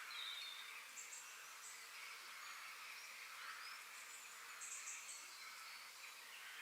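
Faint forest ambience: a steady high hiss with a few small bird chirps scattered through it, and two short, high buzzing trills, about a second in and again near five seconds.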